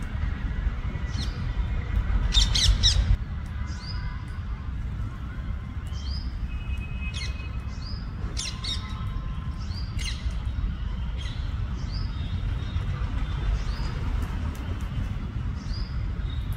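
Rose-ringed (ring-necked) parakeets giving short, repeated squawking calls, with a louder burst of several calls about two to three seconds in, over a steady low rumble.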